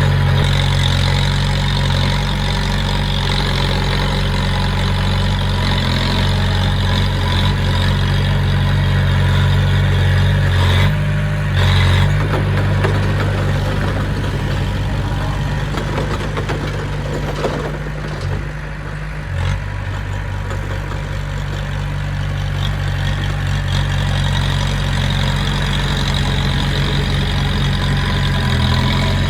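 Heavy diesel engine of earthmoving machinery running steadily, with a brief rise in revs about twelve seconds in and a slight easing a little later.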